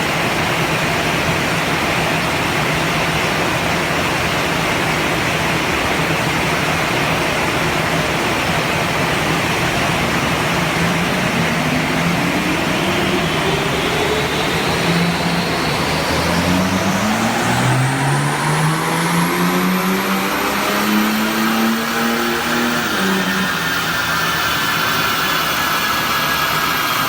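Stage 1 chip-tuned BMW 530xd's three-litre straight-six diesel on a chassis dyno during a power run: a steady rush of rollers and fan, then the engine pulls under full load with its note rising for several seconds, a high whine climbing with it, before it drops back sharply near the end as the throttle is released.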